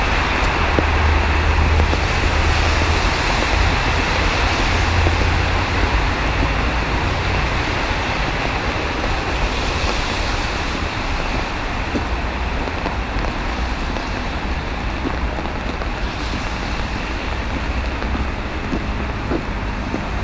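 Steady city street noise in falling sleet: the hiss of traffic on wet roads over a low rumble, easing slightly toward the end.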